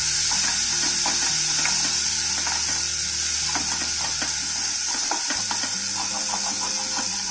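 Ginger-garlic paste sizzling in hot butter, with a wooden spatula stirring and scraping it around the bottom of the pot. The sizzle is steady, with many short scrapes as the spatula moves.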